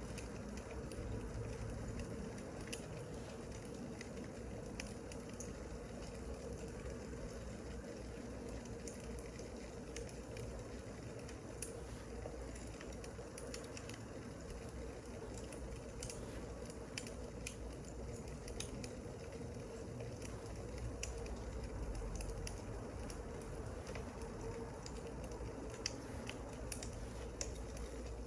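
Wood fire crackling: a steady low rush with many small, irregular pops and snaps.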